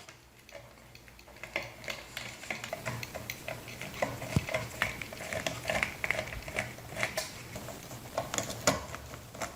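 Screws being backed out of a ceiling fan's lower housing with a screwdriver: irregular light metallic clicks and scrapes, with one louder knock about four seconds in.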